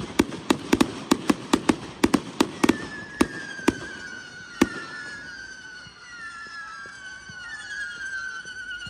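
Consumer fireworks going off: a rapid string of sharp bangs, about five a second, thinning to a few single bangs about four seconds in. Then several high whistles overlap, each slowly falling in pitch.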